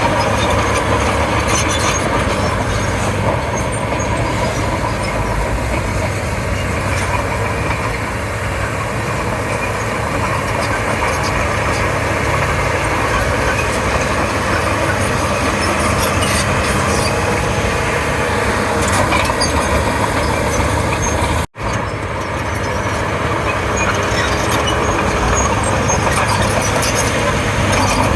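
Komatsu D31P bulldozer's diesel engine running steadily while the machine works, with the sound cutting out for an instant about three-quarters of the way through.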